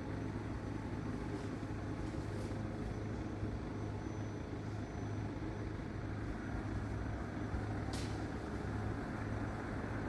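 Steady low engine hum of an idling vehicle, with a single short click about eight seconds in.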